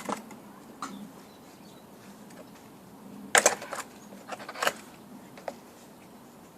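A few short clicks and knocks from handling the stopped Stihl TS 400 cut-off saw, its engine not yet running, the loudest about three and a half and four and a half seconds in, over a faint low hum.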